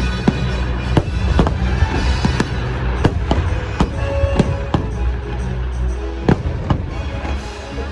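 Fireworks shells bursting, a sharp bang every half second or so, over loud orchestral show music.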